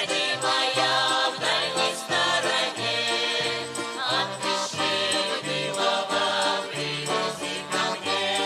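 Folk ensemble playing a passage of a Russian folk song, a bass line stepping between notes about twice a second under sustained melody.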